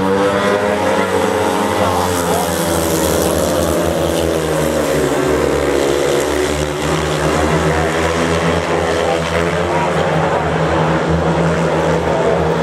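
Four speedway bikes' 500cc single-cylinder methanol engines racing together around the dirt oval, a loud, continuous blare whose pitch rises and falls as the riders go through the bends and down the straights.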